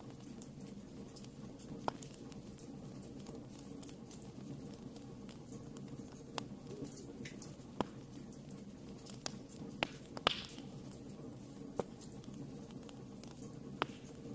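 Wood fire burning in a fireplace: a steady low rumble of flames with scattered sharp crackles and pops, the loudest a little past the middle.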